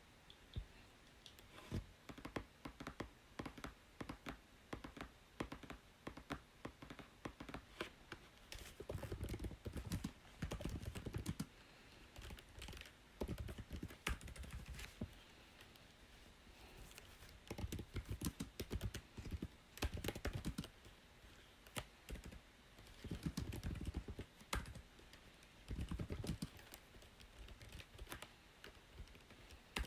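Typing on a computer keyboard: quick runs of key clicks broken by short pauses, some runs with deeper thuds of the keys bottoming out.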